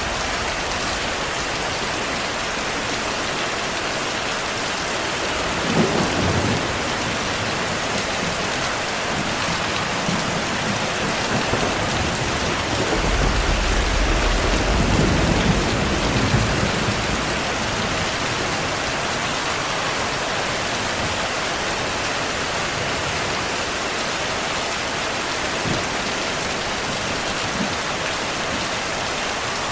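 Heavy rain falling as a steady hiss, with a short clap of thunder about six seconds in and a longer rolling rumble of thunder in the middle.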